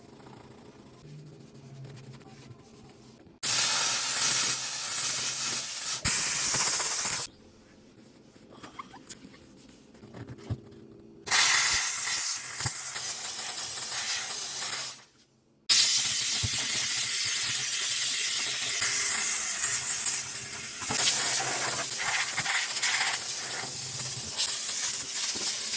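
A spray hissing in three long bursts: the first starts about three and a half seconds in and lasts about four seconds, the second runs for about four seconds, and the third starts after a short break and keeps going.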